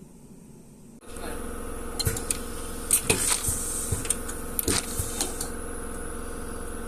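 A small motor-driven machine switches on about a second in and runs with a steady hum, while several sharp clicks and knocks from handling sound over it.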